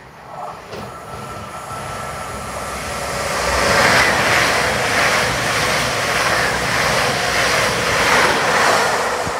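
CrossCountry Voyager diesel multiple unit approaching and passing through the station at speed. Its engines and wheels grow louder over the first few seconds and are loudest from about four seconds in, as the cars rush past close by.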